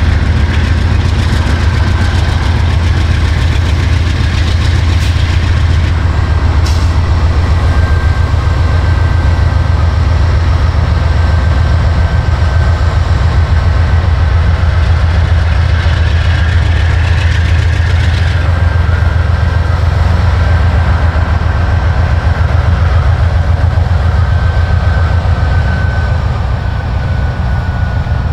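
Freight train running close by: a loud, steady low rumble with a faint thin high whine that sinks slightly in pitch, and a few scattered clicks.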